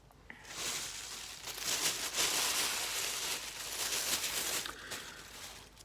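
Packaging being handled: rustling and crinkling for about four and a half seconds, fading out near the end.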